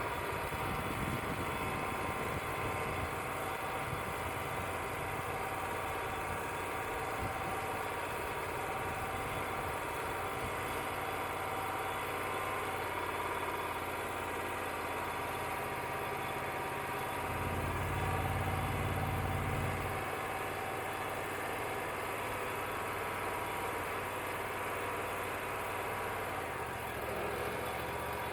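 Wood-Mizer LT35 portable band sawmill running steadily, with a louder low rumble for a few seconds about two-thirds of the way through and a change in its low note near the end.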